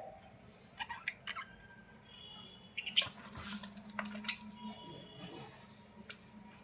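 Birds giving short, soft chirps and squeaks, broken by several sharp clicks.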